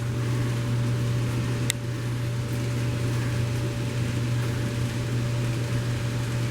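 N-scale model coal train running on the layout: a steady low mechanical hum of the small motor and wheels on track, with one sharp click a little under two seconds in.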